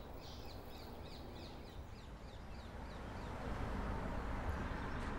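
Birds chirping: a quick run of short, high calls that fades out about two seconds in, over a low background rumble that grows louder in the second half.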